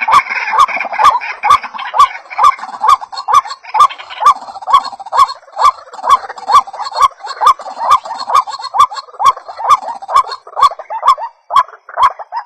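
White-breasted waterhen calling: a steady series of short repeated notes, a little over two a second. The recording is loud and clipped, with a sharp click on each note.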